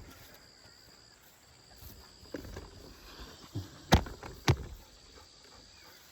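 Two sharp knocks about half a second apart, a little after the middle, with a few softer knocks before them over a quiet outdoor background.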